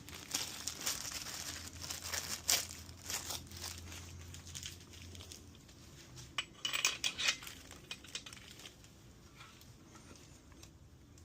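Hands handling engine parts and packaging: a run of light clicks, rustles and small clinks, busiest in the first few seconds and again around seven seconds in, over a low hum that stops about five seconds in.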